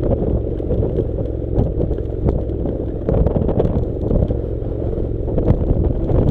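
Honda NC700 motorcycle's parallel-twin engine running steadily while riding a dirt track, under heavy wind buffeting on the microphone, with many scattered small clicks and rattles.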